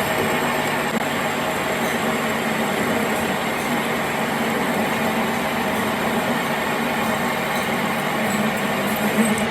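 Steady mechanical noise of a machine running continuously, with a constant hum and no breaks.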